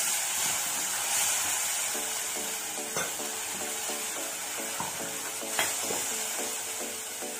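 Green masala paste sizzling in hot oil in a kadai as a steel ladle stirs it, with the ladle knocking against the pan about three seconds in and again near six seconds.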